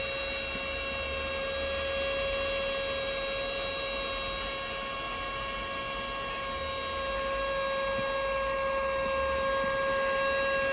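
Handheld rechargeable mini vacuum cleaner running, its small motor giving a steady high-pitched whine. Its suction is too weak to lift crumbs from even a little distance.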